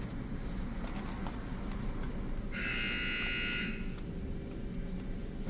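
A low idling rumble throughout, with an electronic buzzer sounding once for about a second and a half in the middle.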